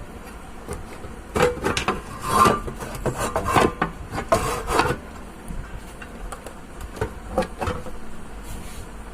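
Irregular scraping and rubbing strokes, bunched between about one and a half and five seconds in and again around seven seconds, over a faint steady hum.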